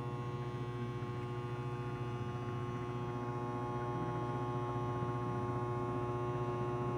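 Microwave oven running through a 2000-watt inverter, with a steady electrical buzz. The buzz comes from the inverter being fed from a 12-volt battery, which is not getting enough juice.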